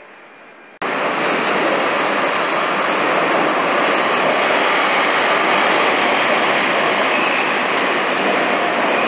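Z2N double-deck electric train entering an underground station: a loud, steady rushing noise of the train running in alongside the platform, which comes on abruptly about a second in.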